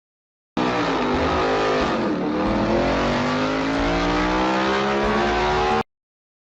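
A motor vehicle's engine revving: its pitch sags about a second and a half in, then climbs steadily as it speeds up. The sound starts and stops abruptly, with silence before and after.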